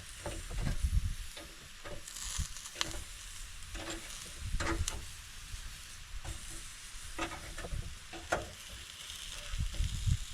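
Deer steaks sizzling on a hot grill, with scattered clicks and scrapes of a utensil flipping steaks that are sticking to the grate.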